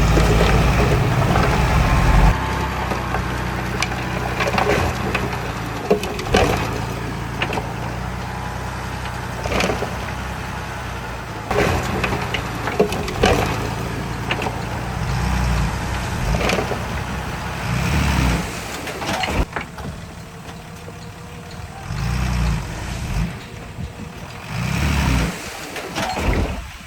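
Heavy diesel earthmoving machinery running, loudest in the first two seconds and then steady, with scattered metallic clanks. In the last third the engine drops back and comes up again in short revs.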